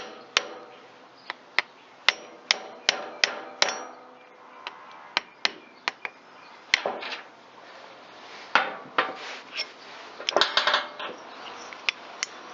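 Sharp metallic taps, each with a brief ring: a quick run of about three a second in the first four seconds, then scattered strikes and clinks. Hand tools are working on a chainsaw piston's wrist pin to free the piston.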